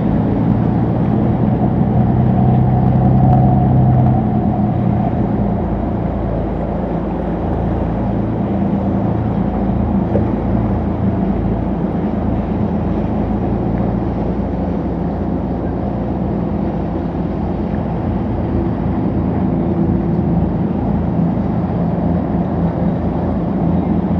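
Motorboat engines droning steadily, a little louder about three seconds in, over a low rumble of wind and water.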